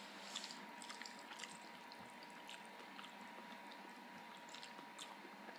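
Faint wet chewing and small mouth clicks of someone eating ramen noodles from a fork, with a thin steady high tone underneath.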